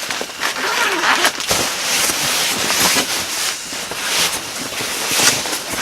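Nylon camping gear, the lent sleeping bag and mat, rustling and swishing in uneven bursts as it is handled and spread out.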